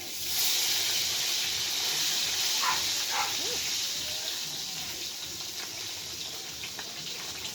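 Hot oil sizzling loudly in a frying pot: it starts suddenly and slowly dies down, as when fish goes into or is turned in the oil.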